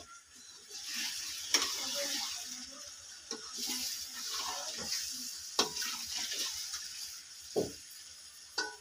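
Raw chicken pieces sizzling in hot ghee and spice paste in a metal pot, stirred with a metal spoon that scrapes and knocks against the pot a few times, about every two seconds.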